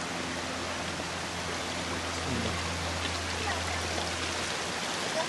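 Steady hiss of running or falling water, with a faint low hum underneath.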